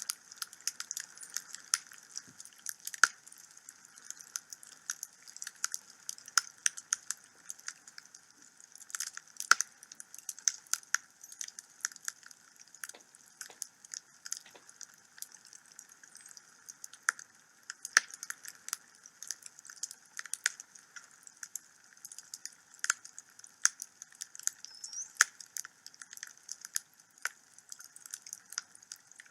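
Wood fire burning in a home fireplace: steady hiss with frequent irregular crackles and sharp pops from the burning logs.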